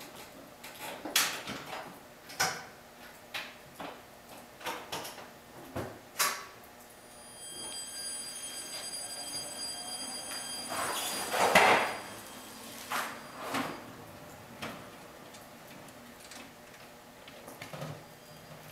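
A string of clunks and knocks from the panels of a 1969 VW Beetle being handled, lids and doors shut and latched. A faint steady high whine runs for several seconds in the middle, and the loudest sound is a short rushing burst about two-thirds of the way through.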